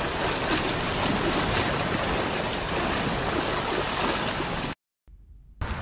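Steady rush of running water, an even hiss with no clear animal calls, cutting off abruptly near the end.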